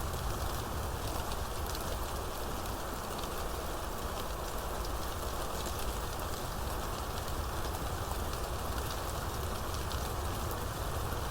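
Steady rainfall from a rainstorm, an even hiss with the quick patter of many drops hitting surfaces and a low rumble underneath that stays level throughout.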